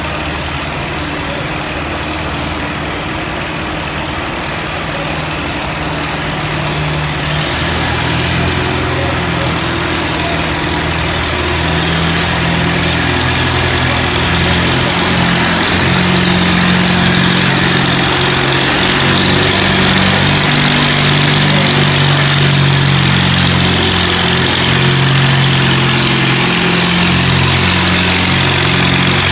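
Antique farm tractor engine running hard, pulling a weight-transfer sled, its low note shifting and gradually growing louder.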